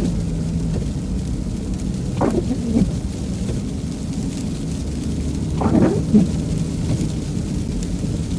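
Inside a truck cab, the engine and tyres make a steady low rumble, with freezing rain hitting the windshield. The windshield wipers sweep twice, about three and a half seconds apart, each pass a short scrape that drops in pitch.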